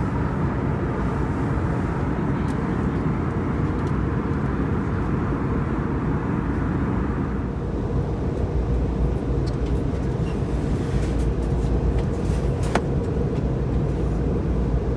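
Steady in-flight cabin noise of an Airbus A321neoLR heard from a seat near the front: a continuous low rumble of engines and airflow with a faint steady hum. The higher hiss eases off about halfway through, and a single click sounds near the end.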